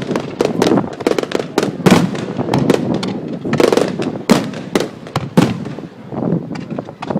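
Aerial fireworks going off in a dense, irregular run of sharp bangs and cracks, many per second, with echoing rumble between them.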